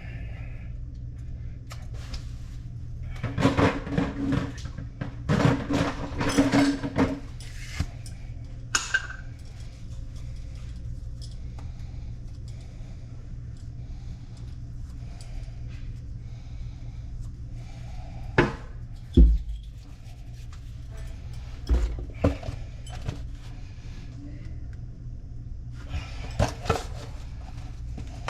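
Clattering, rattling and knocks as plumbing parts and tools are handled under a sink, coming in clusters with quiet gaps between, over a steady low hum.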